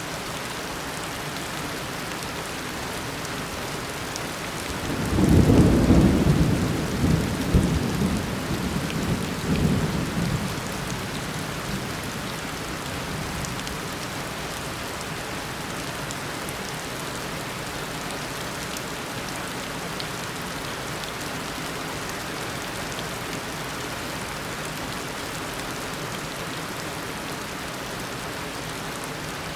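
Steady tropical downpour, with a loud rumble of thunder about five seconds in that peaks quickly and rolls away over some six seconds.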